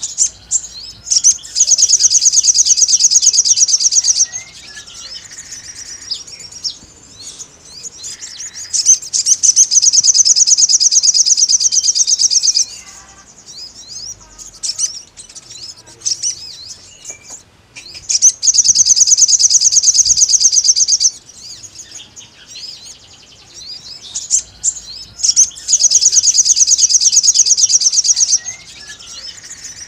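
Sogon bird singing: four loud, rapid, high-pitched trills of about three to four seconds each, roughly eight seconds apart, with softer short chirps between them. It is a wild-type territorial song used to call a rival.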